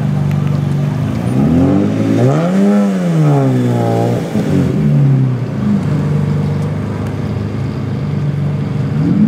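Ferrari 550 Maranello V12 in a custom-built roadster, running at low speed. About a second and a half in it revs up once and falls back over two seconds, and it gives a short blip of the throttle near the end.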